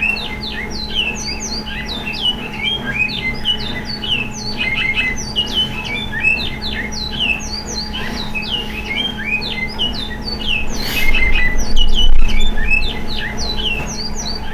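Birds calling and chirping densely, many short downward-sliding chirps overlapping, over a steady low hum. About eleven seconds in comes a low rumble, the loudest moment.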